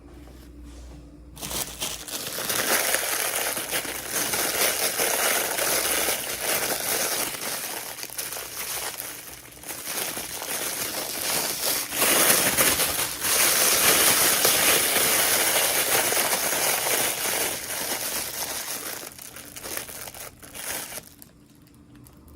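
Packaging crinkling continuously as it is handled in an unboxing, starting about a second and a half in and stopping shortly before the end.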